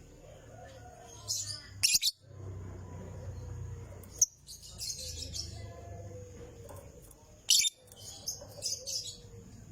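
Lovebird giving shrill, rapid chattering chirps in several short bursts, the loudest a little before two seconds and about seven and a half seconds in.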